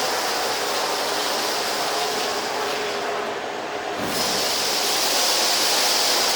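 Philips Performer Pro canister vacuum cleaner running on straight suction through a combination floor nozzle, sucking rice off a carpet. The airflow sound dips briefly about three seconds in, then comes back stronger and hissier.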